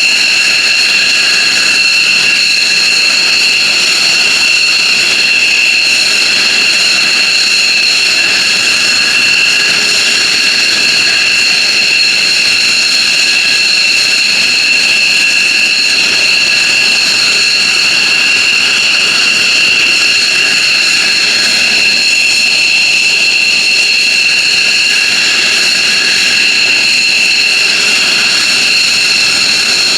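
F-15J Eagle's turbofan jet engines running steadily on the ground, a loud, unchanging high-pitched whine of several tones over a rushing hiss.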